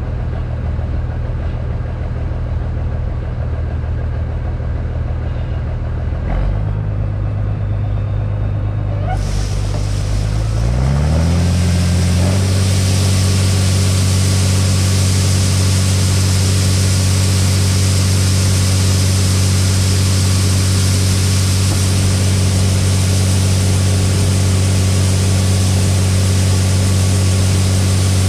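A farm machine's engine running at a low steady speed, stepping up slightly, then throttled up with a rising pitch to a steady higher speed. From about a third of the way in, a loud, even rushing whir of machinery joins it.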